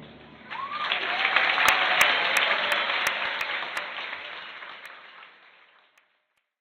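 Audience applauding at the end of a dance number: the clapping starts about half a second in, swells, then fades out, with a run of sharp clicks in the middle.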